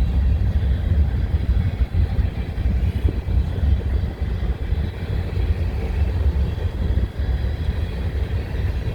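Freight train rolling past, a string of empty covered grain hopper cars, with a steady low rumble of wheels on the rails.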